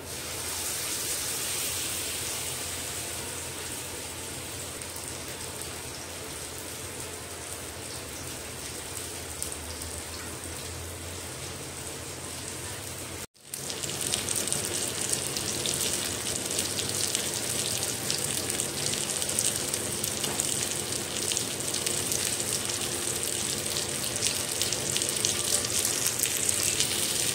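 Whole marinated fish frying in oil on a nonstick tawa: a steady sizzle with fine crackling. There is a brief break about halfway, after which the sizzle is louder and more crackly.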